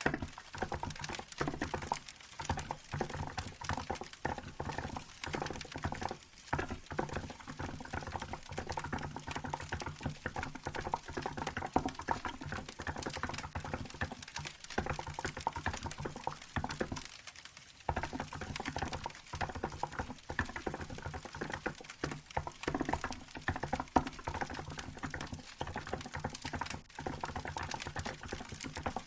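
Fast, continuous typing on a Hansung GK868B mechanical keyboard with milk keycaps, keystrokes clattering in quick runs with a short pause a little past halfway. A wood fire crackles underneath.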